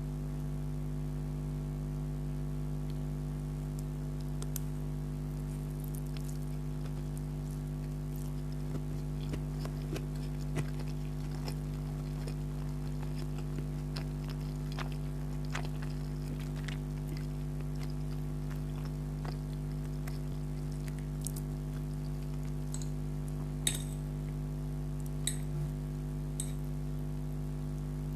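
Person eating spaghetti: faint scattered clicks and wet mouth sounds of chewing, with a sharper click near the end, over a steady low electrical hum that is the loudest thing throughout.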